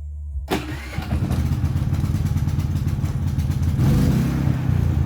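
Predator 3500 inverter generator's single-cylinder engine starting and running steadily, picking up about a second in and rising briefly near the end. It starts right up with the new ignition module, whose failure had left it with no spark.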